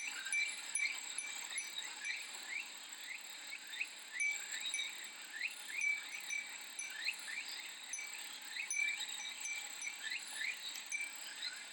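Summer soundscape of cicadas buzzing steadily at a high pitch, with a Japanese furin wind chime tinkling and many short, quick chirps.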